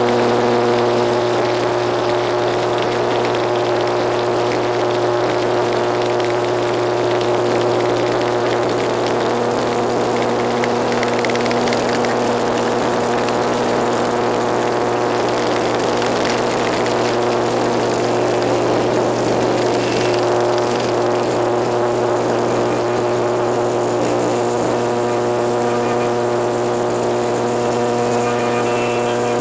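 ATR 72 turboprop engines and propellers droning, heard from inside the cabin. The steady hum of several tones is laid over a rushing noise. Partway through, the tones blur into the rush, and they come back clear near the end.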